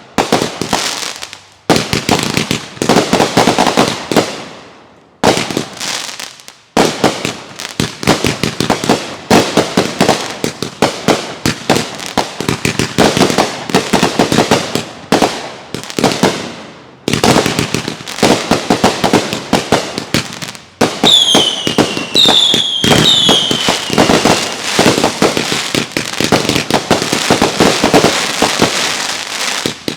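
Consumer fireworks going off in rapid, continuous volleys of bangs and crackling. About two-thirds of the way through, three short whistles sound one after another, each falling in pitch.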